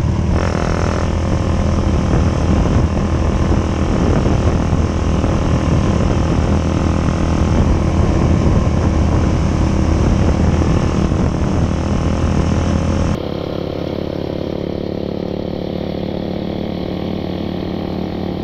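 Motorcycle engine and exhaust running at a steady cruising speed. About 13 s in the sound suddenly drops in level and turns duller.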